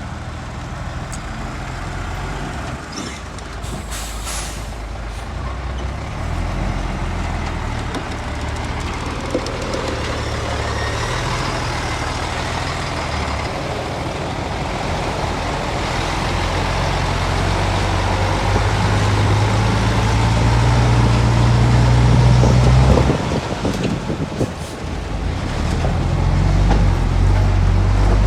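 Heavy diesel machinery engines running under changing load, growing louder over the first twenty seconds, dipping briefly a little after that, then picking up again. A short air hiss, like a truck's air brake, comes about four seconds in.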